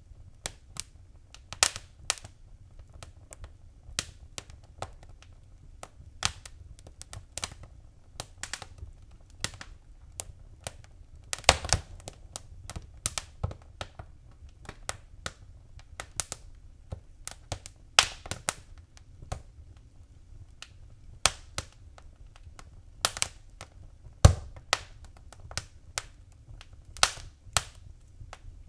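Wood fire crackling: irregular sharp pops and snaps over a low steady rumble of flame, with a few louder pops about twelve and twenty-four seconds in.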